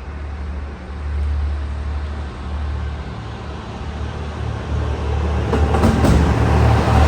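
Diesel railcar engine running with a steady low rumble, growing louder from about five seconds in.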